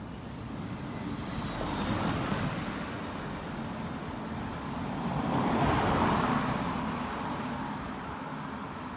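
Road traffic: two vehicles pass by one after another, each rising and fading, the second a little louder, about four seconds after the first.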